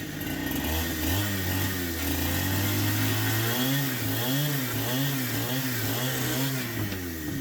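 Small petrol engine revving up and down over and over, its pitch swinging about twice a second in the middle stretch before it settles.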